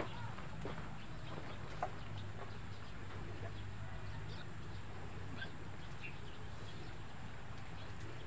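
Faint scattered bird calls, a few short chirps and clucks like farmyard chickens, over a steady low outdoor rumble, with a couple of small clicks near the start.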